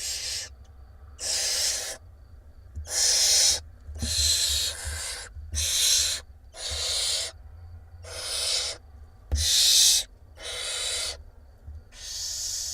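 Barn owl nestlings begging with hissing calls, about ten rasping hisses in a row, each under a second long, from several chicks taking turns.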